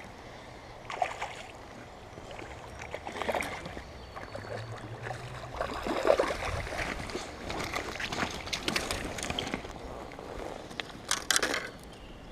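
Creek water sloshing and splashing in irregular bursts while a hooked trout is played in and landed, over the steady run of the stream.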